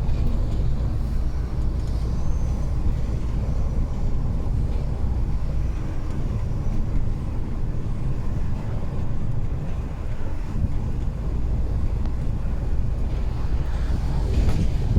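Heavy truck on the move: a steady low engine and road rumble that holds level without a break.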